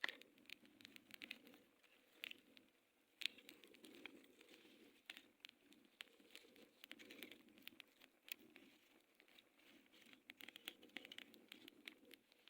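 Faint, irregular crackling and popping from a wood cooking fire under a clay pot.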